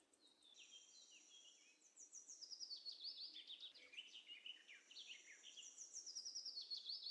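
Faint bird chirps in quick, repeated high notes and short trills, mostly from about two seconds in; otherwise near silence.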